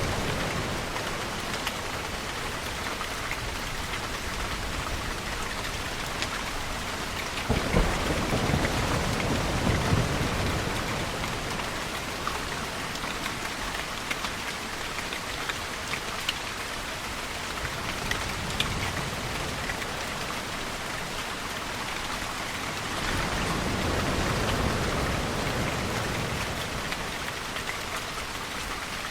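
Steady heavy rain falling, with a roll of thunder that breaks about seven seconds in and rumbles for a few seconds. A second, softer low swell rises and fades in the last third.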